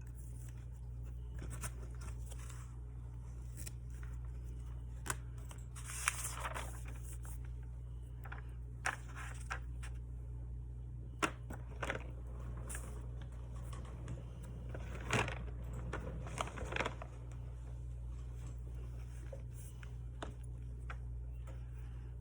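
Craft paper and washi tape being handled on a desk: scattered short tearing and rustling sounds and sharp clicks, several in quick succession past the middle, over a steady low hum.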